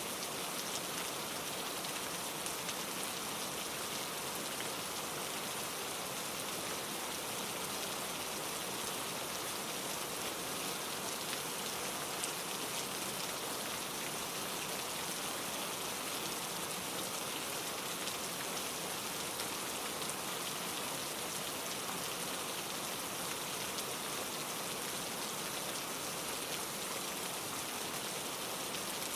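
Steady rain, heard as an even hiss with a fine patter of drops that holds at one level throughout.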